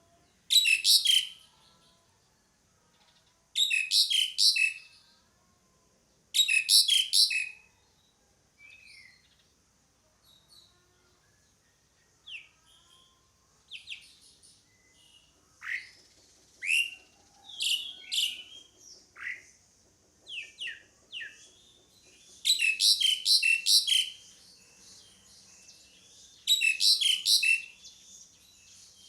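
Asian pied starling (jalak suren) calling: loud, harsh chattering bursts of about a second each, three in the first eight seconds and two more near the end. Shorter whistled notes sliding up and down come in between.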